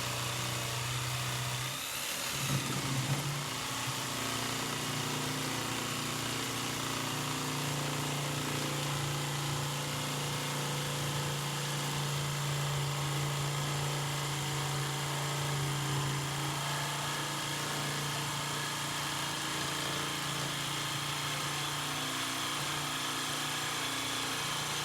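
Electric power tool running steadily on thick steel plate, a constant motor hum with a metallic rasp over it, briefly changing about two seconds in.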